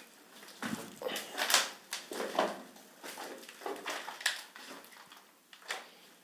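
Footsteps crunching and clinking over debris and rubble, an irregular string of short crunches, loudest about one and a half seconds in.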